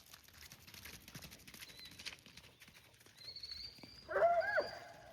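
A dog gives a short whining yelp about four seconds in, its pitch bending up and down, over faint outdoor noise.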